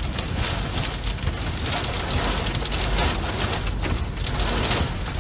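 Heavy wind-driven rain pelting a moving vehicle's windshield and body, heard from inside the cabin as a dense, steady pattering over a low rumble of wind and road.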